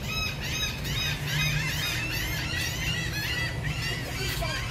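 Birds chirping: a dense run of short, quick, high calls repeating many times a second over a steady low hum.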